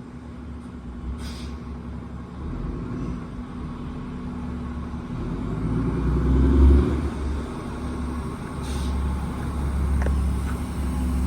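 A motor vehicle engine running with a deep rumble that grows steadily louder, with a swell about two-thirds of the way through. Short hisses come in near the start, and again near the end.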